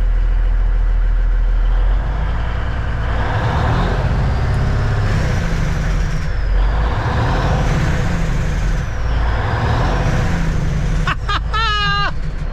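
1989 Kenworth K100E cabover's diesel engine revved and let back down, its Jake brake (engine compression brake) chattering as the revs fall, the engine's sound rising and falling twice. The Jake brake works with the clutch micro switch bypassed by a jumper wire, which points to a faulty clutch micro switch. A voice exclaims near the end.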